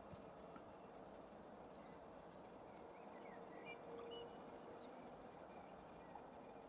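Near silence: faint outdoor ambience with a few short bird chirps around the middle.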